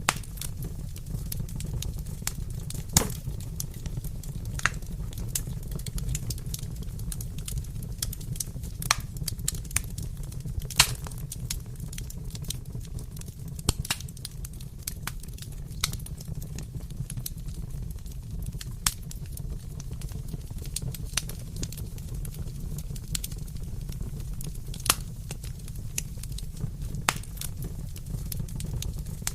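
Wood fire crackling in a fireplace: a steady low rumble of flames with irregular sharp pops and snaps, a few louder ones.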